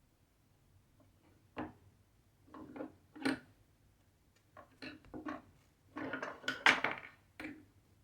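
Light clicks and clatters of small hard objects being handled, a few scattered knocks and then a quick flurry of them about six to seven seconds in.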